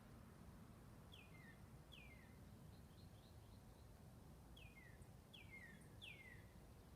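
A bird calling faintly: short, clear notes that slide down in pitch, two about a second apart early on and three more in quick succession later, with a few softer high chips in between.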